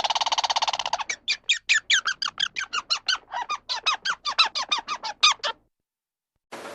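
A small animal's rapid run of high, squeaky calls, about five a second, each one dropping in pitch. It opens with a short buzzy trill and stops abruptly near the end.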